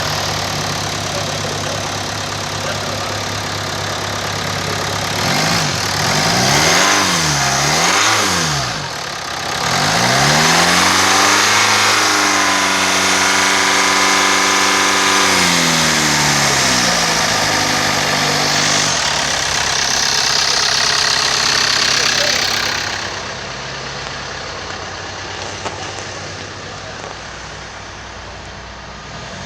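Kia Sorento 2.2 turbo-diesel engine idling, revved twice in quick succession about six seconds in, then held at raised revs for about six seconds before dropping back to idle. It is a wrecker's engine test, run to show the engine is good.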